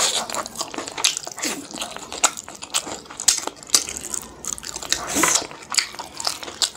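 Close-up wet chewing of pork petu (pork stomach and intestine), a dense, irregular run of sticky mouth smacks and clicks.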